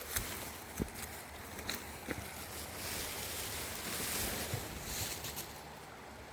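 Steady rush of river water with wind on the microphone, and a few footsteps knocking on stones, mostly in the first half.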